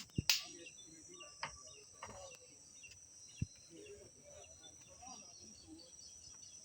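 Outdoor insect chorus, crickets giving a steady high chirring, with a few sharp knocks, the loudest near the start, and faint bird calls and distant voices.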